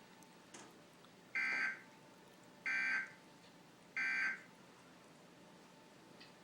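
Emergency Alert System end-of-message tones: three short bursts of warbling digital data, evenly spaced about 1.3 seconds apart, marking the close of a severe thunderstorm warning broadcast.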